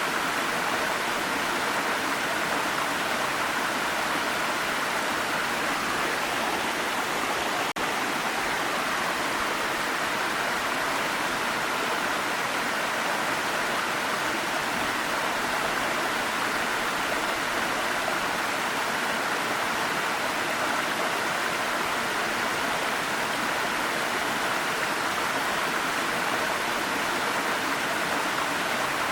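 Waterfall: a steady, even rush of falling water, with one momentary dip about eight seconds in.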